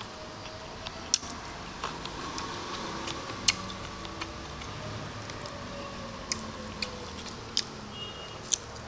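Close-miked chewing with the mouth open: sharp wet clicks and lip smacks, about one a second and irregular.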